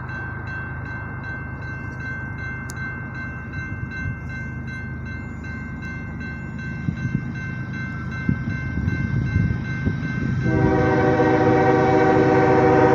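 Railroad crossing bell ringing as a slow-moving Norfolk Southern freight locomotive approaches, its engine rumble growing louder. About ten seconds in, the locomotive's air horn sounds a sustained chord.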